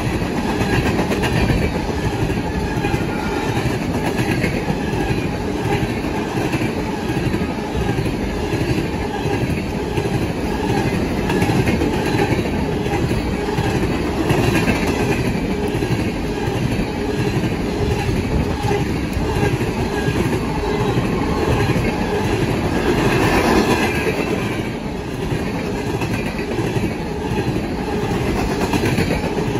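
A long train of open-top hopper cars rolling steadily past at speed, its steel wheels clacking in a constant rhythm over the rail joints under a continuous rumble.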